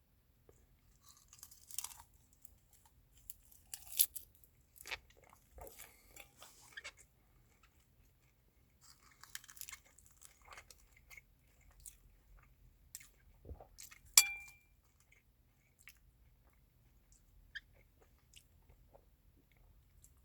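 Close-up eating sounds: a person chewing and crunching food in irregular bursts. There is one sharp tap with a brief ring about fourteen seconds in.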